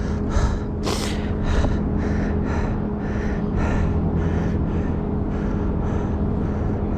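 A mountain biker panting hard after a hard-pushed ride, about two breaths a second, over a steady engine hum.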